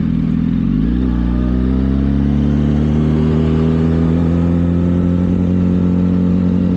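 Motorcycle engine under way. Its note changes about a second in, then rises slowly and steadily as the bike accelerates.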